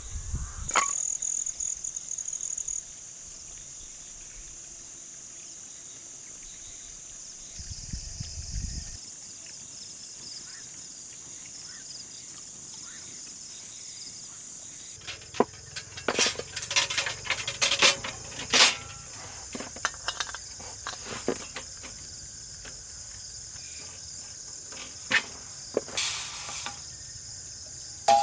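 Steady high-pitched chorus of crickets, with a run of sharp clicks and rustling handling noises from about halfway through.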